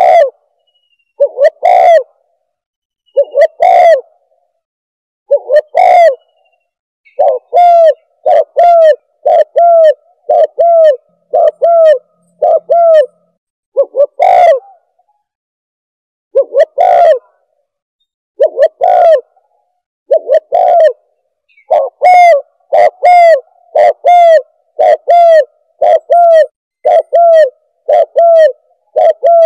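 Recorded spotted dove (tekukur) calls played as a hunting bird caller: loud, short coos, some about two seconds apart and others in quick runs of roughly one a second.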